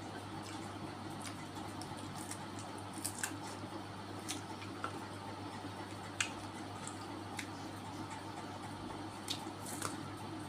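A person chewing and eating close to the microphone: wet squishing mouth sounds with scattered sharp clicks and smacks, over a steady low hum.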